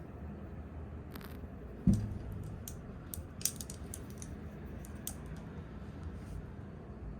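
Close-up ASMR lens tapping and hand sounds: scattered light clicks and taps, with one heavy low thump about two seconds in, over a steady low hum.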